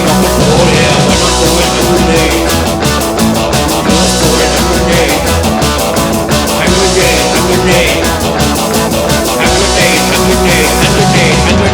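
Punk rock band playing at full volume: guitars, bass and drums pounding out a steady, fast beat.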